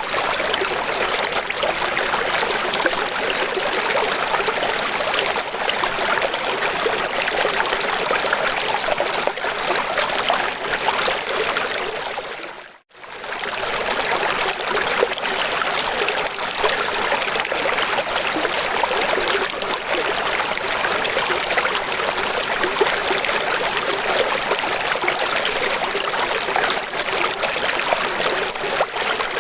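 Running water rushing steadily, an even hiss with little deep rumble. About 13 seconds in it fades out to silence for a moment and comes straight back.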